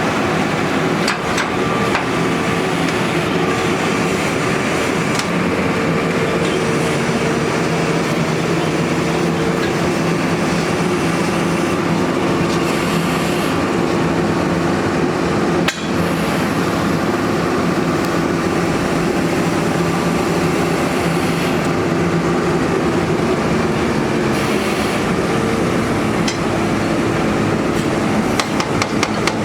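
A borehole drilling rig's machinery runs steadily with a dense clatter. Near the end, a rapid run of evenly spaced hammer strikes starts over it.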